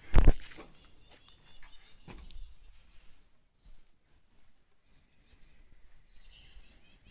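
Birds calling in the bush: a dense run of high-pitched chirps and twitters for the first few seconds, thinning out, then picking up again near the end. A single loud thump just after the start.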